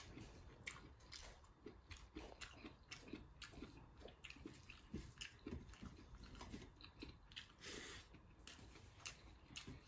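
Faint, close-up chewing and mouth sounds of a person eating pork curry and rice by hand: many small, irregular clicks and soft smacks.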